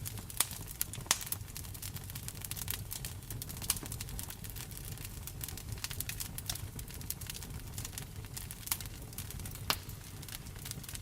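Wood fire crackling in a fireplace: a dense run of small sharp snaps and pops with a few louder ones, over a steady low rumble and the even hiss of rain.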